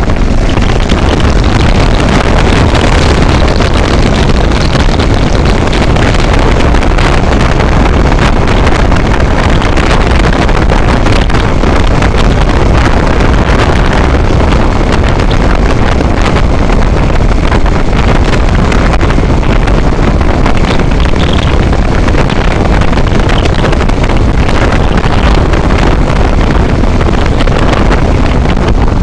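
Loud, steady wind rushing over the microphone of a moving vehicle, with the vehicle's running noise underneath and no breaks.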